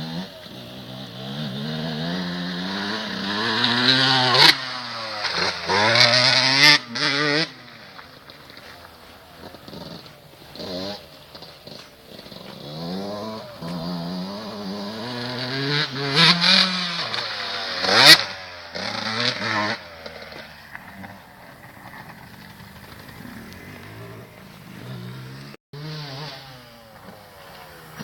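Motocross bike engines being ridden hard, revving up and dropping back again and again through gear changes, louder as bikes come close and fainter as they move away. A few sharp cracks break in, the loudest about two-thirds of the way through.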